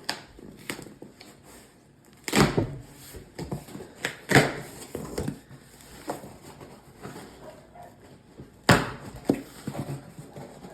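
Shipping package being unboxed: irregular knocks, thuds and rustling of cardboard and packing, with the loudest handling noises about two, four and nine seconds in.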